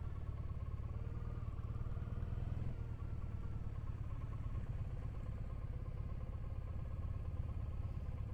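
Triumph Bonneville parallel-twin engine running steadily on the move, its note wavering slightly in pitch.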